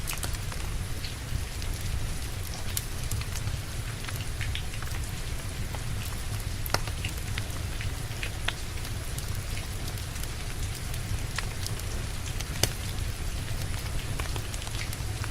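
Steady rain falling together with a crackling wood fire, with a low steady rumble underneath and sharp pops from the burning logs every few seconds.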